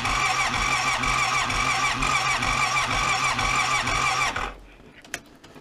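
Electric starter cranking the cold Honda Rincon ATV's single-cylinder engine, a steady whine with the engine's compression pulsing about three to four times a second, without catching; the cranking stops about four and a half seconds in.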